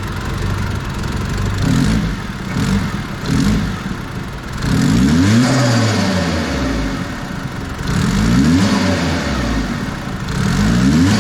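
Turbocharged Maruti Zen engine revved from idle: a few short quick blips, then three longer revs that rise and fall, each with the turbo intake's hiss coming in.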